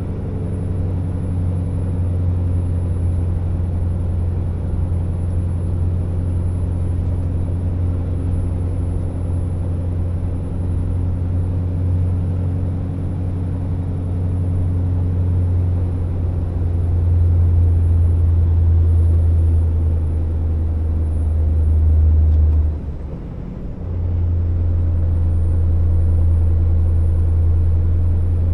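Scania R650 timber truck's V8 diesel engine running steadily under load, a deep drone that grows louder, then drops away for about a second near the end before it picks up again.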